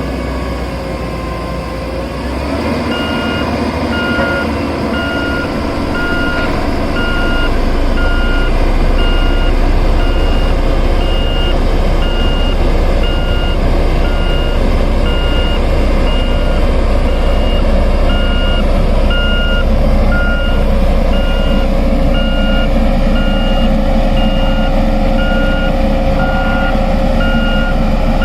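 Volvo SD110C soil compactor running with its diesel engine rumbling steadily while its reversing alarm beeps at an even rate. The alarm starts about three seconds in, and the low rumble grows louder a few seconds later.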